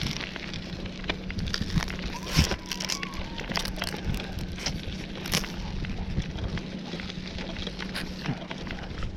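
Riding a bicycle outdoors: irregular clicks and crackles from the bike and road over a steady hiss, with a faint wavering tone about two seconds in.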